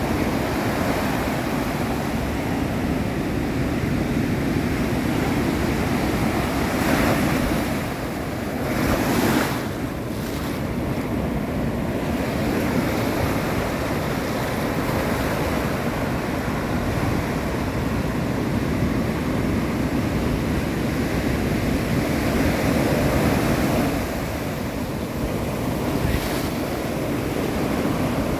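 Ocean surf washing and breaking, with wind blowing over the microphone. Brief louder rushes stand out about 7 and 9 seconds in.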